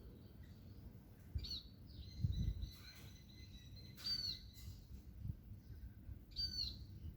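A bird calling: three short, high, curling chirps about two and a half seconds apart, with a thin steady high note between the first two. Low rumbling noise underneath, loudest about two seconds in.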